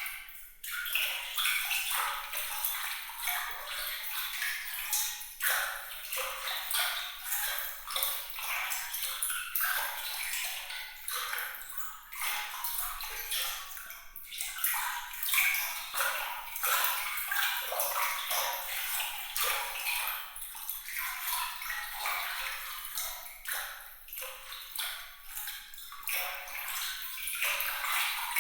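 Trickling, splashing water: a dense, continuous patter of small, bright droplets and ripples with almost no low end.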